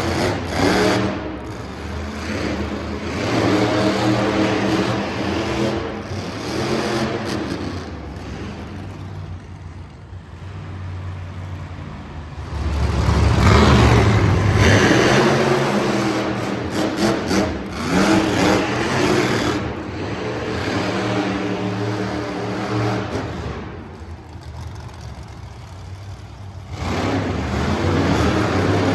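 Monster truck engine revving up and easing off again and again, with its loudest, deepest surge about halfway through.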